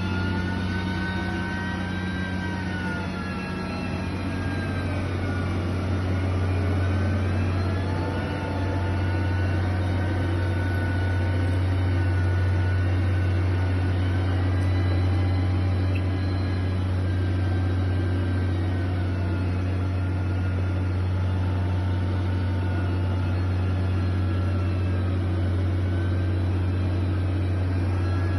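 Heavy construction machine's engine running continuously, a steady low hum with a whine whose pitch slowly rises and falls as the revs change.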